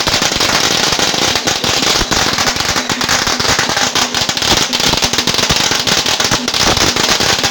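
A long string of firecrackers going off: a dense, rapid, unbroken crackle of bangs that starts suddenly.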